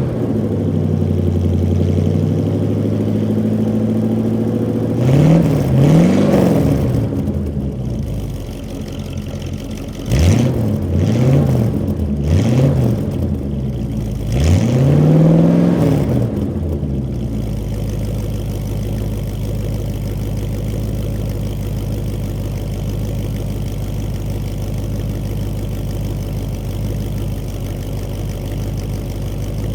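1986 Chevrolet C-10 Silverado pickup's engine warming up after a cold start, revved up and back down once about five seconds in, then four more times in quick succession, the last the longest, before settling into a steady idle.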